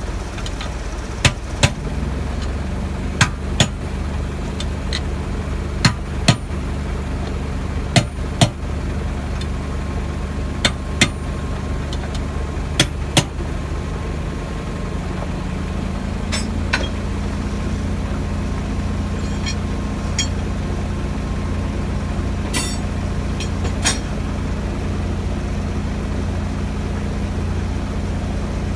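A heavy engine idles steadily, its pitch stepping up slightly about halfway through. Over it come sharp metallic clanks, mostly in quick pairs every couple of seconds in the first half, then only a few single ones.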